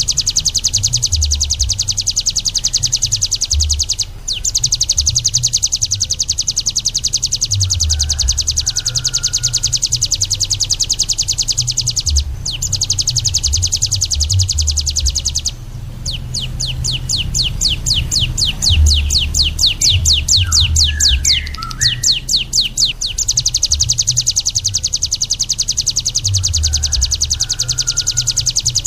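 A small songbird's rapid, high trill, repeated almost without a break and pausing only briefly a few times. For about seven seconds in the middle it slows into distinct, separately struck notes, and a few faint short whistles come in over it. A low rumble runs underneath.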